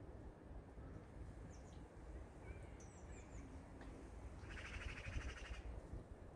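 Small garden birds calling faintly: a few short, high chirps, then a rapid trill lasting about a second about two thirds of the way in, over a steady low wind rumble.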